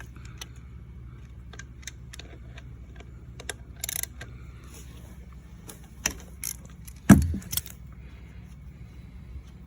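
Scattered metallic clicks and clinks of a 12 mm socket wrench and tools working a dirt bike's engine drain plug, with one loud knock about seven seconds in.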